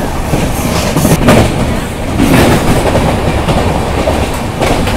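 Passenger train coaches running along the track: a steady rumble of wheels on rail, with sharp clacks over rail joints about a second in and again near the end.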